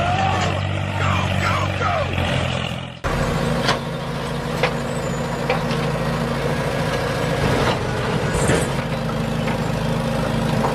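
A heavy vehicle's engine runs steadily, with a few short gliding squeals in the first two seconds. It cuts off sharply about three seconds in and picks up again straight away. Scattered clicks and knocks follow.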